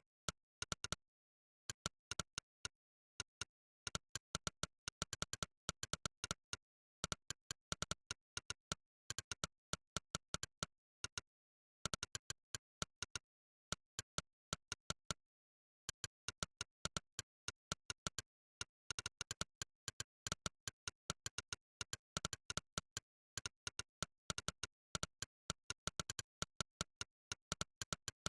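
Monkeytype's 'click' keypress sound effect, one short click per keystroke, coming in irregular bursts of several clicks a second with brief pauses between words and phrases.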